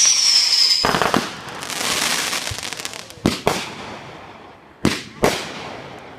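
Fireworks going off. A high whistle falling slightly in pitch ends in a sharp bang about a second in, followed by crackling and three more bangs, the last two close together near the end.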